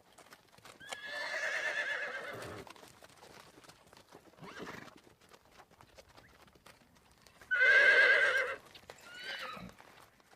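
Horse whinnying twice, each a long shrill neigh with a quavering pitch; the second, about eight seconds in, is the louder. A soft low sound comes between them and a short call follows the second. Faint clicking runs underneath.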